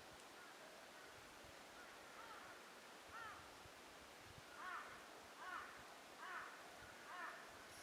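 A crow cawing a series of calls, faint at first, then about five clearer caws spaced under a second apart in the second half, over a quiet forest background.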